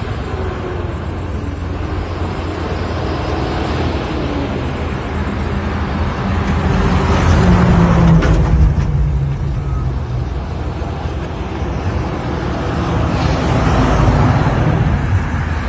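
Truck engine running with road noise. It swells louder about halfway through and again near the end.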